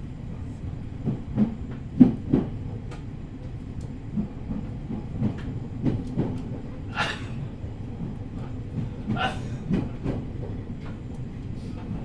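Running noise inside an E501 series electric train moving slowly under a strong-wind speed restriction: a steady low rumble with irregular knocks from the wheels over the track. Two brief hissing sounds come about seven and nine seconds in.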